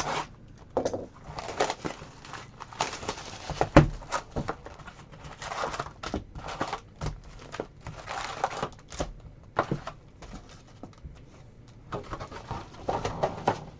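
A box of Hoops basketball cards and its foil packs being opened and handled: irregular crinkling, rustling and sharp clicks of wrapper, cardboard and cards.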